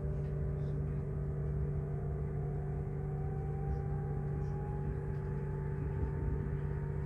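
Regional train running, heard from inside a passenger car: a steady low hum and rumble with a faint whine that rises slowly in pitch.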